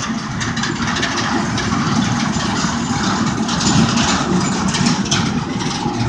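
Union Pacific intermodal freight train's empty well cars rolling past below, a steady rumble of wheels on rail with frequent clanks and rattles.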